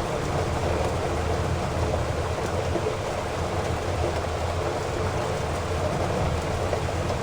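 Heavy rain falling steadily: a dense, even hiss of drops with a low rumble underneath.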